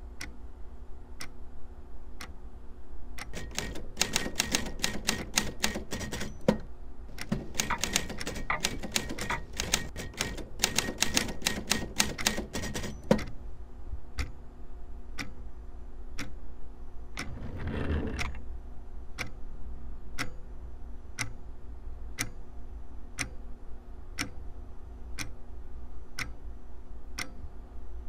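A longcase clock ticking about once a second, with a burst of rapid manual-typewriter keystrokes from about three seconds in that lasts some ten seconds with a short pause. A brief rush of noise swells and fades later on, over a faint steady hum.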